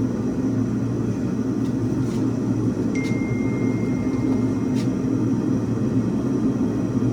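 Steady low rumble of a forge running in the shop. About three seconds in, a thin, steady high squeal sounds for nearly two seconds.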